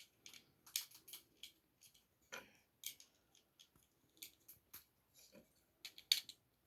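Small plastic Lego pieces clicking and rattling as they are handled and pressed together: quiet, irregular clicks, with a sharper snap about six seconds in.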